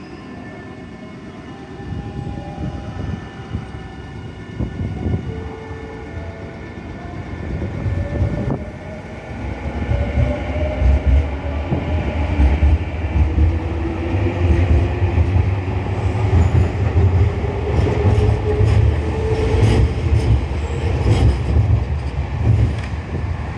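Nankai Koya Line electric train running through the station, its rumble growing steadily louder, with a motor whine that slowly rises in pitch and wheel clatter over the rails.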